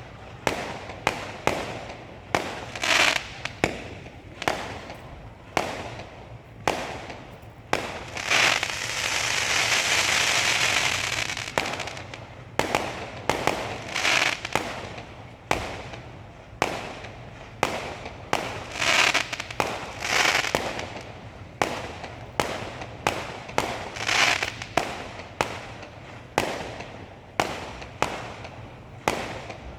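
Fireworks display: a steady run of sharp bangs from bursting shells, about one or two a second, several trailing off into crackling. Around eight seconds in a longer hissing crackle runs for about four seconds.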